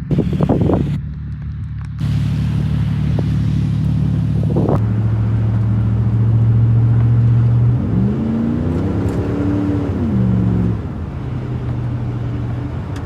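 Vehicle engine running steadily while driving through deep powdery snow drifts. About eight seconds in, the engine revs up, holds, then drops back near eleven seconds. A brief louder noise comes right at the start.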